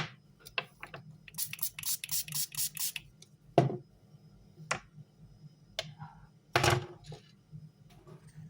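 A quick run of short scrubbing strokes, then a few separate sharp clicks and knocks, as a graphics card's circuit board is cleaned and handled. A faint low hum runs underneath.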